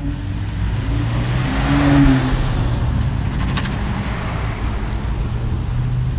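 Supercar engines running at low revs as the cars drive out. One car passes close about two seconds in, its noise swelling and then fading.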